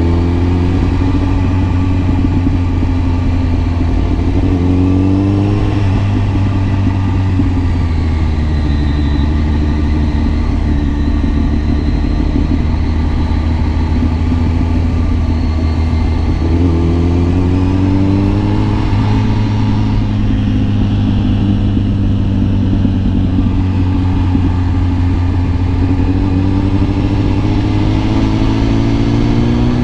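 Kawasaki ZX10R's inline-four engine running while riding, with a steady drone that rises in pitch twice as the bike accelerates, a few seconds in and again a little past the middle, then levels off.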